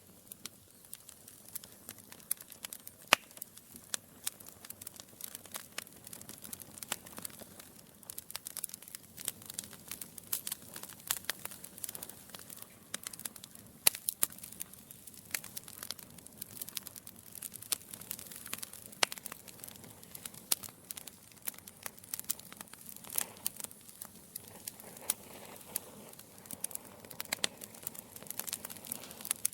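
Logs burning in a fireplace, crackling steadily with frequent irregular sharp pops and snaps over a low hiss; a few pops stand out louder.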